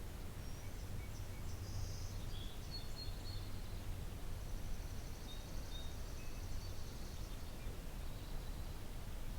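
Faint songbird calls and song, including a high buzzy trill held for a few seconds in the middle, over a steady low rumble.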